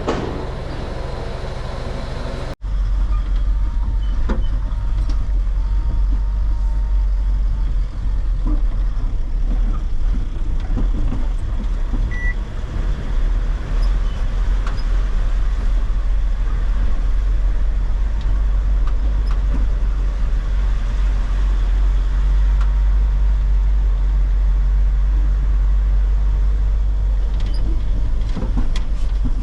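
Truck driving on a road, a heavy steady low rumble of engine and road noise with scattered small knocks and rattles; the sound changes abruptly about two and a half seconds in as the footage cuts.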